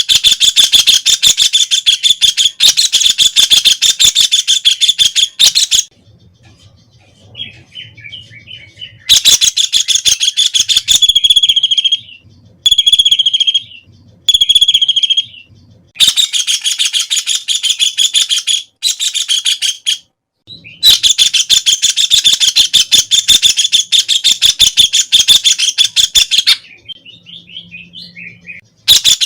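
White-throated kingfisher calling: loud rattling trills of rapid notes, each run lasting several seconds, with short pauses between runs. A few separate drawn-out notes come in the middle, and quieter calls fill two of the gaps.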